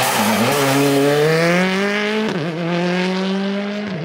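Rally car engine accelerating hard. Its pitch climbs through one gear, falls abruptly on an upshift a little over two seconds in, holds steady, and dips again on another shift near the end.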